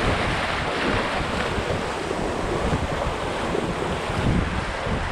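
Surf washing on a sandy beach, with wind buffeting the microphone in a steady rumble.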